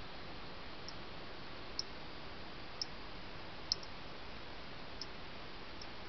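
A songbird giving short, sharp, high chip notes, six of them a second or so apart, the fourth the loudest, over the steady hiss of a trail camera's microphone.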